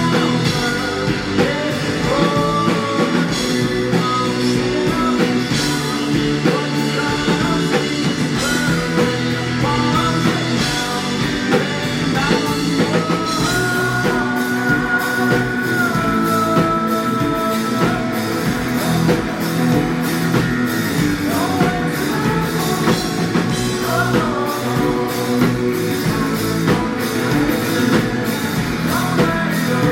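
Live rock band playing, with sung vocals over electric guitar, bass and drum kit; a long held vocal note comes about halfway through.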